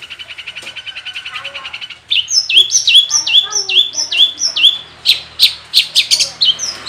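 Long-tailed shrike (cendet) singing a varied song full of mimicked phrases: a fast rattling trill, then from about two seconds in a run of about seven repeated falling whistled notes, then sharp separate high chips.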